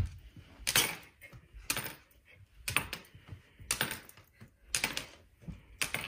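Sharp clicks, evenly spaced about once a second, each with a short ring.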